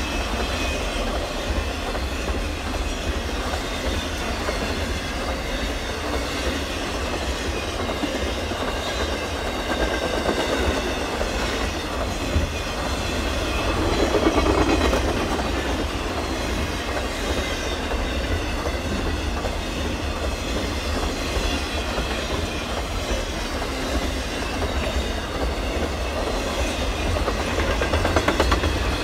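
Double-stack intermodal freight train's loaded well cars rolling past close by: a steady low rumble and rattle of steel wheels on rail, growing briefly louder about halfway through.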